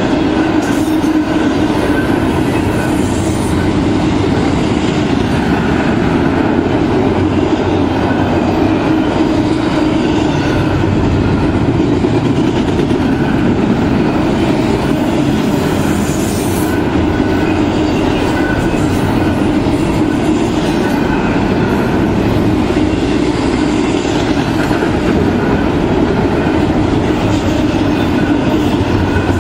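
Double-stack container cars of a long freight train rolling past, their steel wheels on the rails making a steady, continuous rumble.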